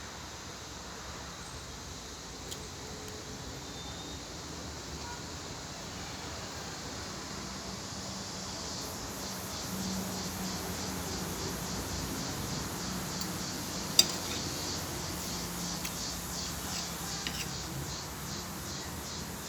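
Steady background hiss with two sharp clinks of cutlery against a plate or glass, a small one about two seconds in and a loud one about fourteen seconds in. From about halfway a fast, high pulsing hiss joins.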